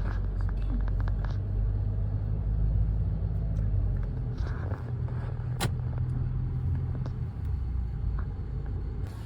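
Steady low rumble of a car in motion, road and engine noise as heard inside the cabin, with a single sharp click about five and a half seconds in.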